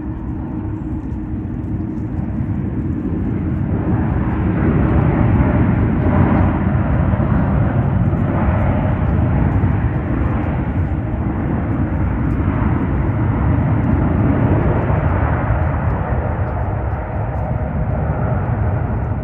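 Jet airliner engine noise: a loud, rough rumble that swells over the first few seconds and then holds steady as the plane passes.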